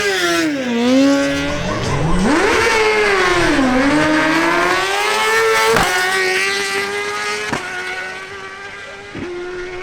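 Suzuki GSX-R1000's inline-four engine at full throttle on a drag-strip launch, climbing in pitch through the gears with a drop at each upshift. From about two-thirds through it holds a steadier note, broken by three sharp clicks at the shifts, and grows quieter near the end.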